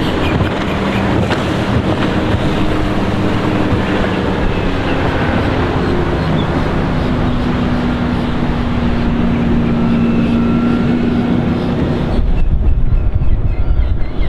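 A boat's MerCruiser 5.0L EFI V8 stern-drive engine running under way, with rushing water and wind noise on the microphone. About twelve seconds in, the high hiss drops away and a deep wind rumble takes over.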